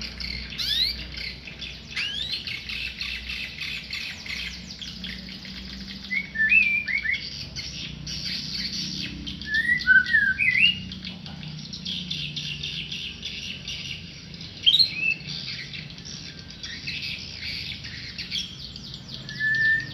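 A tame murai songbird singing loud whistled phrases that slide up and down, one every few seconds, over a steady high twittering.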